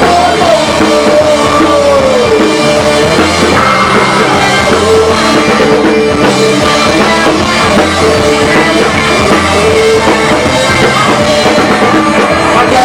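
A rock band playing a loud instrumental stretch of a song live, with electric guitar and drum kit.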